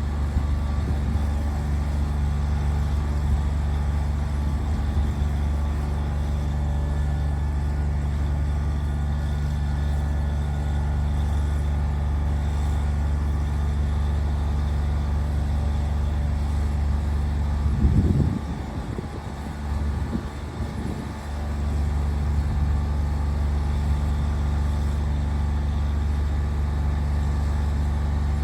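Bucket truck's engine running steadily with a low hum. Its hum drops away for a few seconds about two-thirds of the way through, with some irregular rustling, then comes back.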